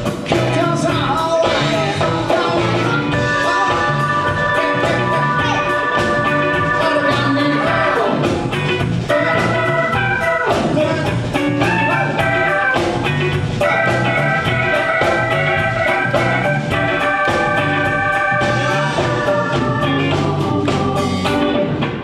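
A live band playing an upbeat song with a steady drum beat, guitar and held chords, with some singing.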